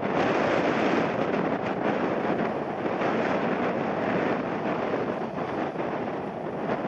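Strong, gusty wind rushing over the microphone: a loud, steady noise with no distinct tones.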